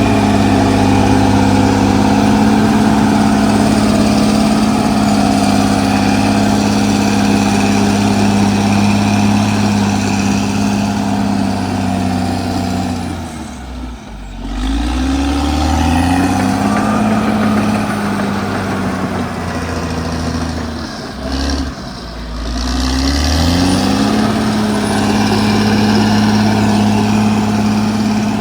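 Caterpillar D6R XL bulldozer's diesel engine running at high revs. About halfway through, the revs drop sharply and climb back, then do it again some seconds later, before running steady once more.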